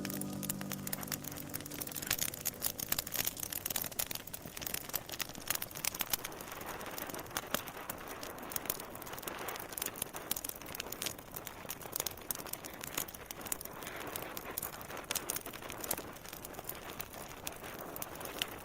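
Wood fire crackling in a fireplace: irregular sharp pops and snaps over a soft hiss. The last held notes of music fade out in the first second or so.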